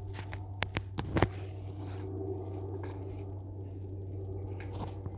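A hairbrush dragged through hair: a few scratchy strokes and sharp clicks in the first second or so, the loudest just after a second in, over a steady low hum.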